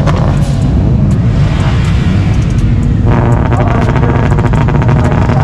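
Loud performance car engine running hard. About three seconds in, a rapid, evenly spaced string of sharp pops starts.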